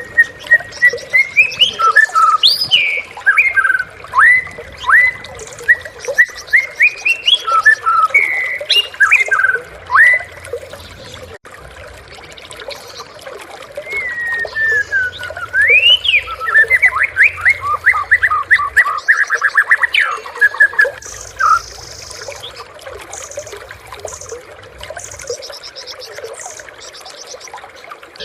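White-rumped shama singing a varied run of loud, clear whistles, sweeping slurred notes and a fast rattling trill. The song breaks off about two-thirds of the way through, leaving only faint high chips.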